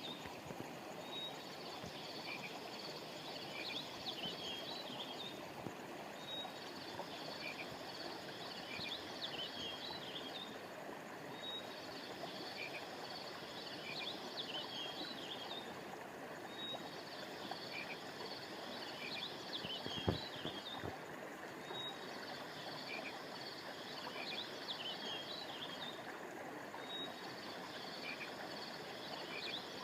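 River water flowing steadily, under a high chirping chorus of small animals that repeats in the same pattern about every five seconds, as from a looped recording. A single short low knock about twenty seconds in.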